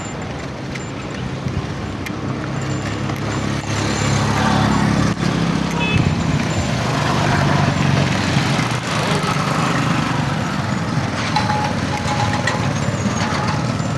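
Motor vehicle engine running with road noise, growing louder through the middle and easing off toward the end.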